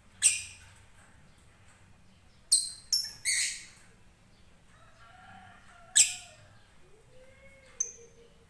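Blue-and-white lovebird giving short, sharp, high-pitched calls: one right at the start, a quick run of three about two and a half seconds in, another around six seconds, and a short one near the end.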